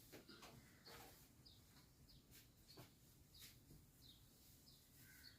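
Near silence, with a bird's faint high chirps repeating about twice a second.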